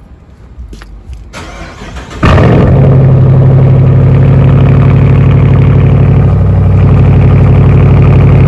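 Straight-piped 2018 Dodge Charger Daytona's Hemi V8, its muffler and resonator deleted, starting up: it catches about two seconds in with a sudden loud burst and settles into a loud, steady idle. The engine was already run earlier and is not fully cold.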